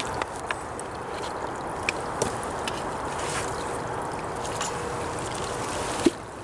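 Creek water flowing steadily, with scattered small clicks and knocks; it drops off abruptly with a sharp click about six seconds in.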